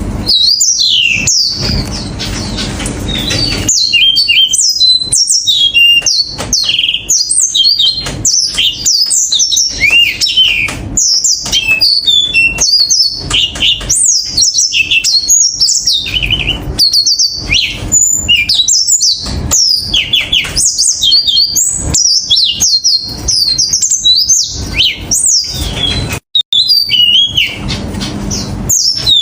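Yellow-fronted canary (green singing finch) singing a fast, high-pitched song of chirps and sweeping twittering notes that runs on almost without a pause.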